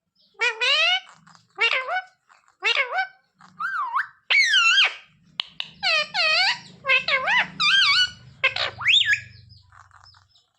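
Indian ringneck parrot giving a string of about a dozen short, high-pitched calls in quick succession, some rising and some dipping then rising, in the bird's talking voice.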